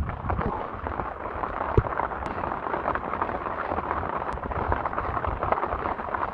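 Heavy rain falling: a steady, dense rush of raindrops with many sharp individual drop hits close by.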